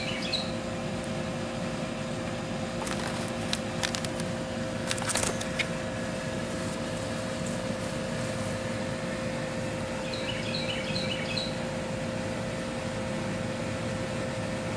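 Steady machine hum holding two even pitches throughout. A bird chirps a quick run of short high notes about ten seconds in, and there are a few light clicks and rustles around three to five seconds in.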